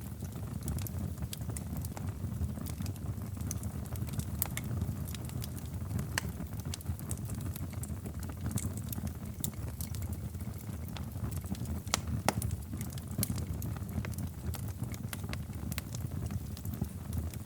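Wood fire burning in a fireplace: a steady low rumble of flames with frequent scattered sharp crackles and pops, one louder pop about twelve seconds in.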